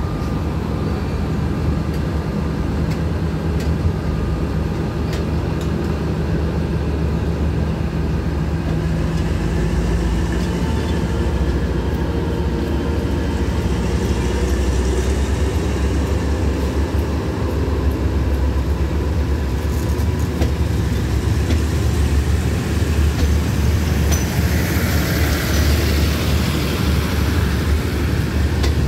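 Passenger coaches of a diesel-hauled express train rolling past slowly as it pulls out: a steady rumble of wheels on rails with light clicks at the rail joints, the distant locomotive's diesel engine droning in the first half. A short hiss comes near the end.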